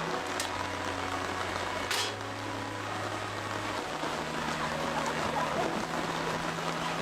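Heavy rain falling steadily as a dense, even patter, with faint low sustained notes underneath and one sharp tick about two seconds in.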